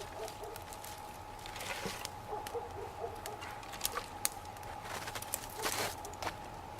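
Campfire of raspberry canes and boards burning, crackling with scattered sharp pops and a brief hiss a little before the end.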